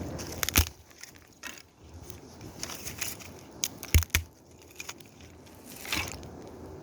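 Firewood cracking and crunching: irregular sharp snaps, the loudest about half a second in and about four seconds in, with a brief rustling swell near the end.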